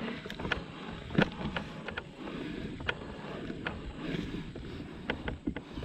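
Dirt bike moving over a rough, rocky trail: a steady rough rolling noise with many sharp clicks and knocks from stones and the bike's rattling parts.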